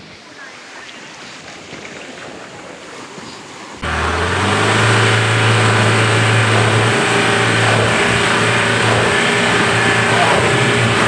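A vehicle's engine starts running loudly at steady revs about four seconds in, after a few seconds of faint noise. The engine is under load as the vehicle tries to pull itself out of the mud where it is stuck in a river crossing.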